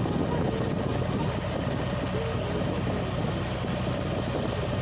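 Boat engine running steadily, heard from on board, with a low steady hum under a wash of wind and water noise.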